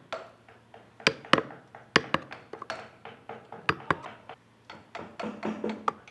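Wood carving: a carving tool knocks sharply into wood about a dozen times at an uneven pace.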